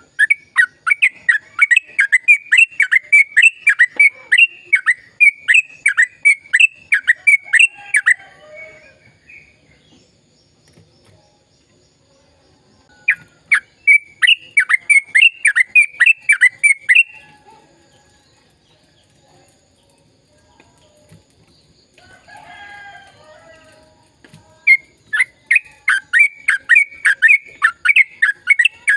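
Yellow-vented bulbul (trucukan) singing long, fast runs of repeated bubbling notes, about three a second, in three bursts with pauses between. A softer, lower chatter comes just before the last burst.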